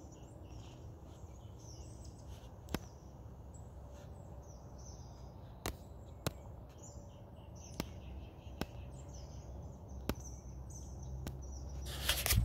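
Small birds chirping and singing in the trees at dawn: many short high calls throughout, over a steady low background rumble, with a few sharp clicks every second or two. Near the end a loud rustling, crunching noise begins.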